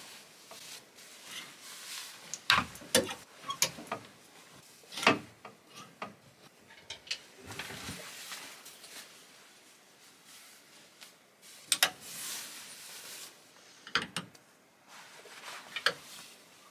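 Clothes hangers clicking and knocking now and then as they are slid and hung on a closet rail, with the rustle of garments being moved between the clicks.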